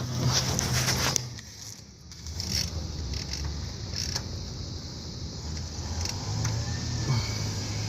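Light clicks and scrapes of hand tools and a drain pan being handled under a car while the oil filter is being got off, over a steady low hum.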